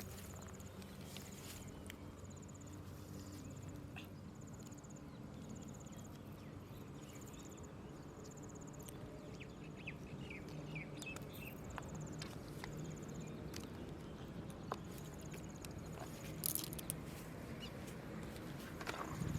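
An insect calling in short, high buzzing trills about once a second, over a low steady hum. A few sharp clicks and knocks come near the end.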